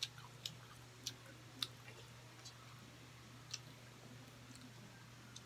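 A person chewing grilled meat taken off skewers, heard as faint, irregular wet mouth clicks about every half second to a second. A low steady hum runs underneath.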